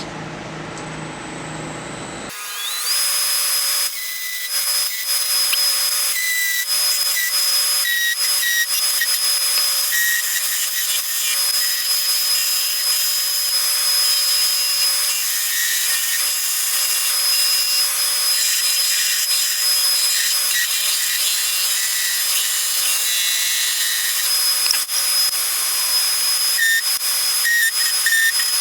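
Wood lathe whining up to speed about two seconds in, then running steadily while a turning tool cuts into a spinning poplar spindle blank, a continuous hissing, scraping cut as the blank is turned down to an even thickness.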